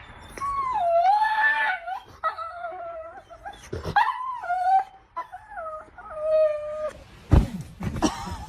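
A dog whining in about four drawn-out calls whose pitch wavers and slides up and down. Two loud knocks come near the end.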